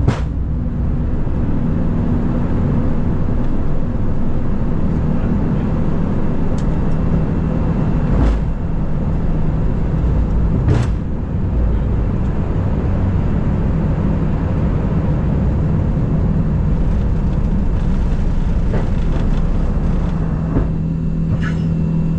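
Steady rumble of cabin noise inside an Airbus A350-900 cockpit, with a low hum running under it. A couple of short sharp clicks come about a third and halfway through.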